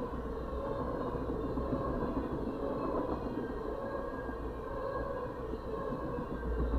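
Freight train of tank cars rolling steadily past at a grade crossing: a continuous rumble of steel wheels on the rails, heard from inside a car.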